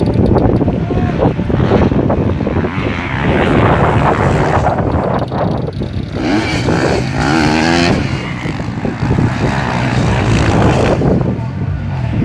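Motocross bike engines racing on a dirt circuit, loud and continuous, with a burst of revving about six seconds in as a bike passes close.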